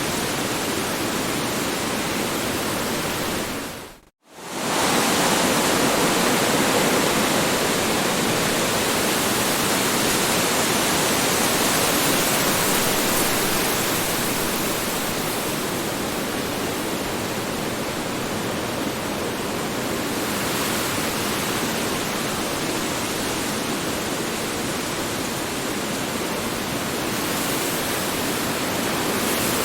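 Strong wind blowing, a steady rushing noise that swells and eases gently. About four seconds in it fades away to near silence for a moment, then comes straight back.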